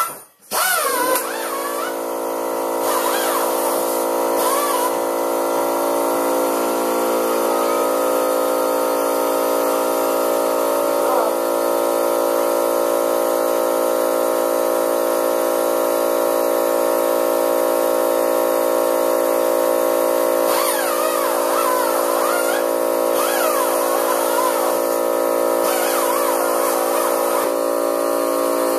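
Air compressor starting up about half a second in, then running steadily as a constant multi-tone hum, supplying air for cleaning up a weld.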